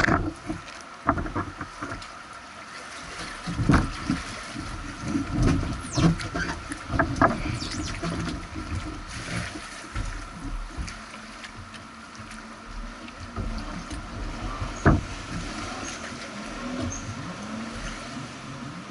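Jet ski running over rough, choppy water: a steady engine note under rushing water noise, broken by irregular hard thumps and splashes as the hull slams into the waves.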